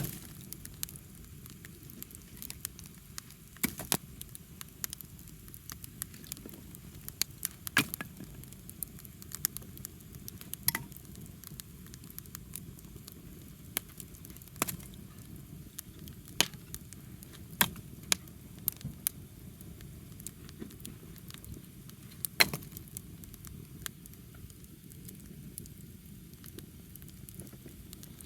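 Wood bonfire burning, with irregular crackles and sharp pops from the burning wood, a handful of them much louder than the rest, over a soft steady hiss.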